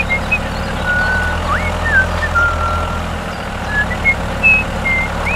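A tractor engine running steadily with a low hum, with short high chirps and whistling slides scattered over it.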